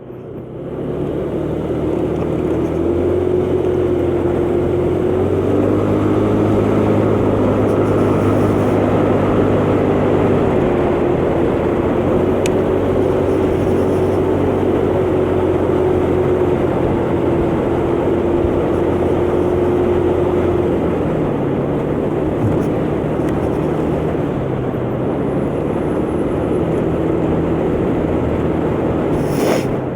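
125cc motor scooter engine running while riding at low speed, with road and wind noise. The engine note holds fairly steady, with small rises and dips in pitch.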